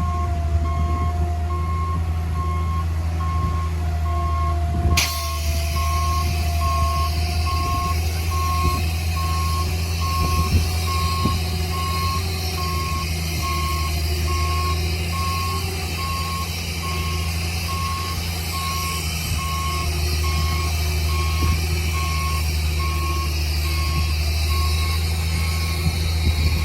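Heavy construction machine's diesel engine running steadily while its reversing alarm beeps at an even pace, signalling that it is backing up.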